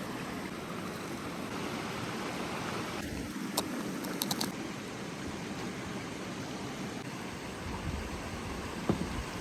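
Steady rush of river water. A sharp click about three and a half seconds in and a quick run of three clicks just after four seconds.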